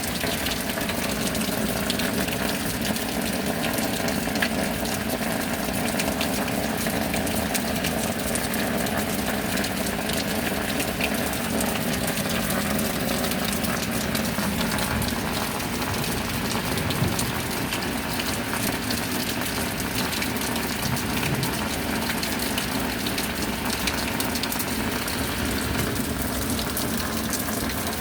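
Steady heavy rain, with many close drops ticking against a constant wash of water.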